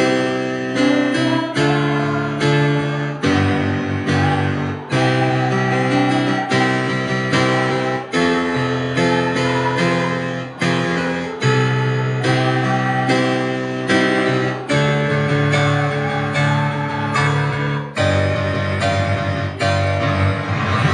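Instrumental music led by a strummed acoustic guitar, its chords changing every second or two.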